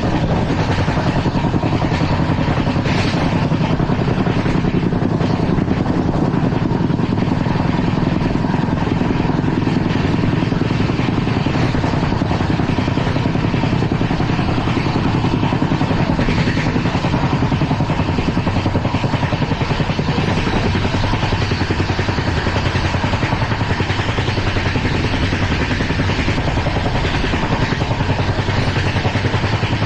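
LHB passenger coach running at speed over the rails: a steady, loud rumble of wheels on track with a dense rattle through the body.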